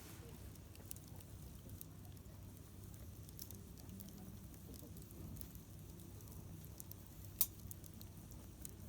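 Wood campfire crackling faintly, with scattered small pops over a low steady rumble and one sharper pop near the end.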